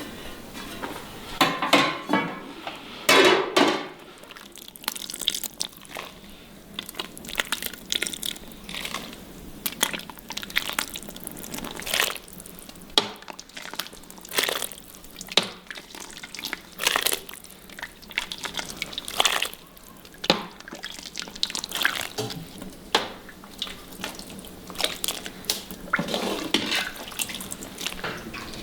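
Water splashing and dripping, as at a sink or tap, with irregular clicks and knocks throughout.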